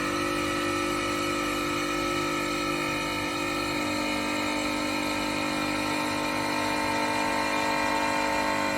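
A CNC stone-cutting machine running, a steady machine whine of several held tones whose pitch shifts slightly about halfway through.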